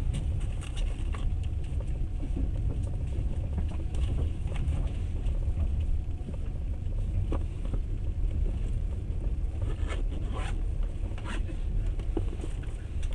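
Steady low rumble of a moving passenger train heard from inside the carriage, with scattered light clicks and rattles, a few sharper ones about ten seconds in.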